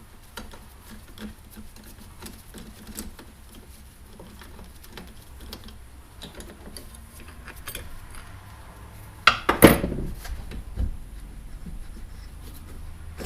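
Light clicks and rattles of tools and small metal trolling-motor parts being handled on a workbench during disassembly. A louder clank comes about nine and a half seconds in.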